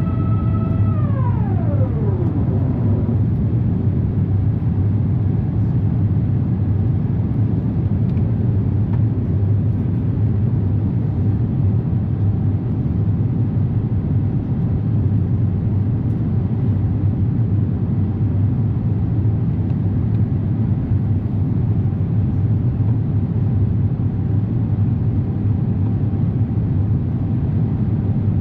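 Steady low roar of a jet airliner's engines and rushing air, heard inside the cabin from a window seat during takeoff. In the first couple of seconds a whining tone slides down in pitch and fades under the roar.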